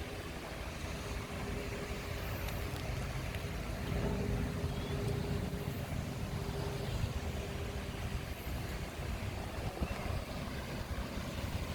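A motor engine running with a steady hum, growing louder about four seconds in and easing off again after about seven seconds.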